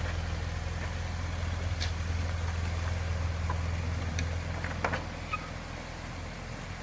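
An engine idling with a steady low hum, with a few light clicks about two, four and five seconds in.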